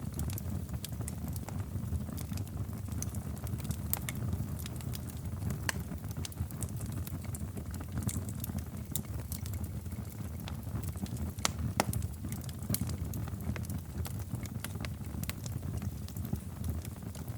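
Wood fire in a fireplace crackling, with irregular sharp pops over a steady low rumble of flames; the loudest pops come about two-thirds of the way through.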